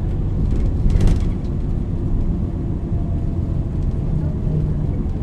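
MAN NL 323 city bus running under way, its engine and ZF Ecolife automatic transmission giving a steady low rumble. A short hiss comes about a second in, and a faint steady whine sits over the rumble in the second half.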